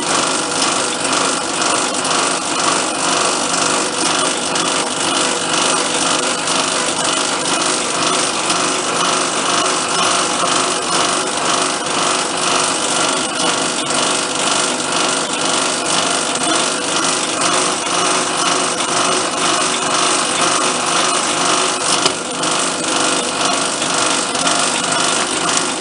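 A workshop power tool running steadily at constant speed, loud and unbroken, working metal down to size.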